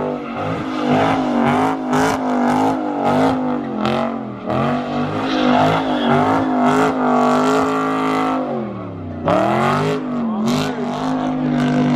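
Car engine revving hard over and over, its pitch climbing and dropping about once a second, with one longer drop and climb near the end, as the car spins donuts.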